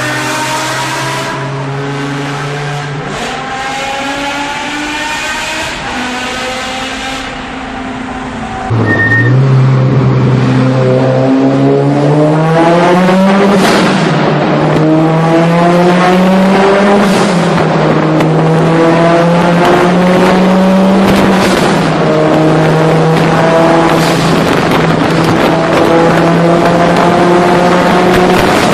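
Supercar engine accelerating hard in a road tunnel, revving up through the gears. About nine seconds in it cuts to a louder run whose pitch climbs again and again with each upshift.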